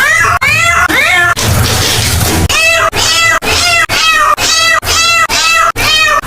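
A cat meowing over and over: a couple of meows, a short noisy break, then a fast, even run of about two meows a second, with sharp cuts between them like an edited loop.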